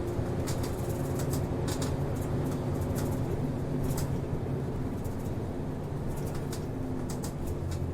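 Route bus driving, heard inside the cabin: a steady diesel engine hum with frequent sharp rattles and clicks from the bus body and fittings. The engine note drops lower near the end.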